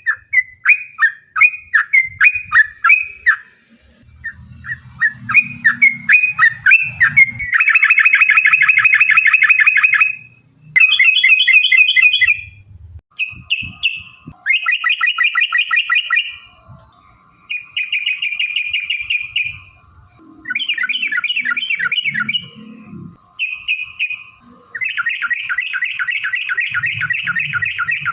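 Yellow-vented bulbul (trucukan) singing loudly. It opens with a run of short chirped phrases. From about seven seconds in come long, fast rolling trills ("ropel"), in several bouts with short pauses between them.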